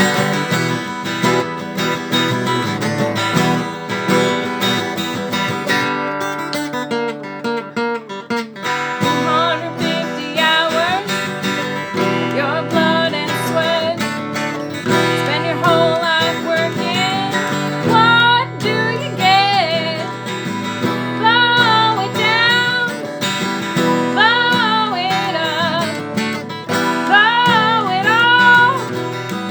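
Acoustic folk band playing an instrumental break: strummed acoustic guitar chords with a sliding melodic lead line over them from about a third of the way in.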